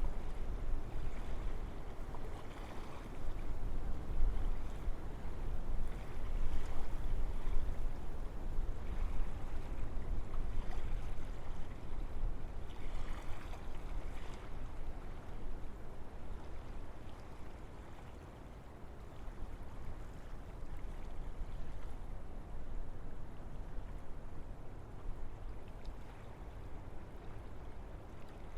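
Wind blowing through forest trees, a continuous rush that swells and eases in gusts, dying down somewhat after the middle.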